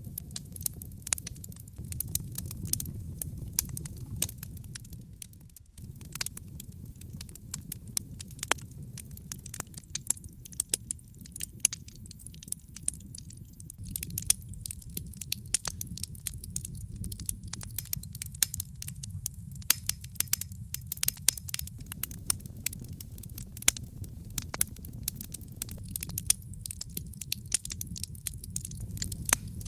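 Wood fire crackling in a fireplace, with frequent sharp pops and snaps over a low, steady rumble of burning.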